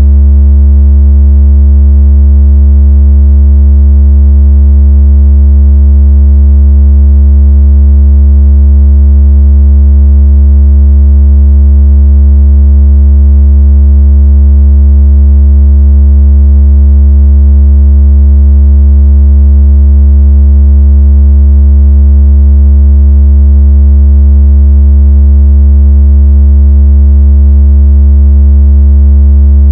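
A steady, very loud, deep synthesized tone of the kind played to shake water out of a phone speaker or to imitate a phone's vibration buzz. It holds one pitch without change, with fainter overtones above it.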